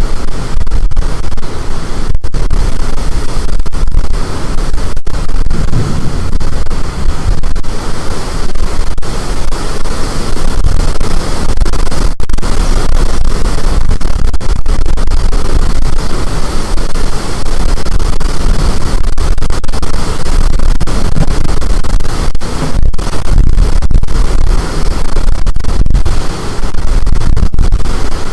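Storm wind blasting the microphone: a loud, unbroken roar of noise, heaviest in the low end, with brief momentary dropouts.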